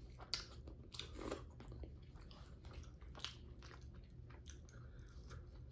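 A person chewing food close to the microphone: quiet, irregular wet mouth clicks and smacks.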